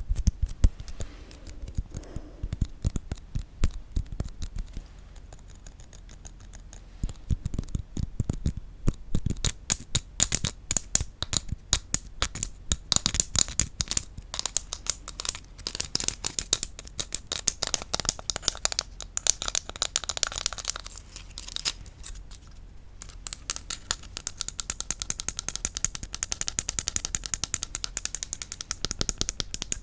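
Rapid tapping on wooden objects: a dense run of quick, light taps, easing off briefly a few seconds in and again about three-quarters of the way through.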